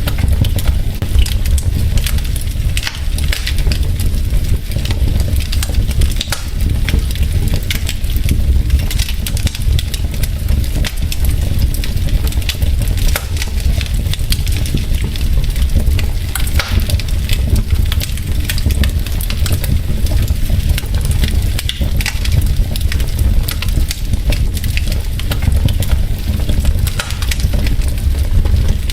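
Wood logs burning in a fireplace, crackling with frequent sharp pops over a steady low rumble of the fire.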